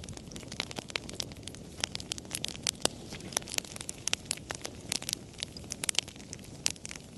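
Wood fire crackling, with frequent sharp irregular pops and snaps over a low steady rumble.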